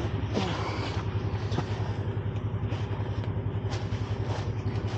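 A truck engine idling steadily, a low even throb, with scattered rustling and snapping of brush close by.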